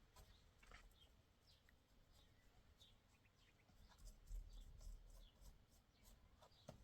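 Near silence with faint, scattered bird chirps, a few soft clicks, and a brief low rumble about four seconds in.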